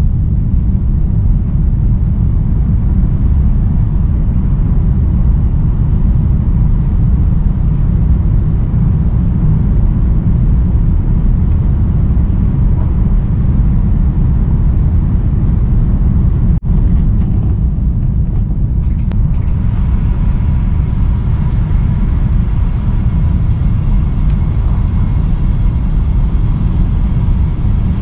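Chinese CRH high-speed train running: a steady, loud low rumble, with a brief momentary dip about two thirds of the way through.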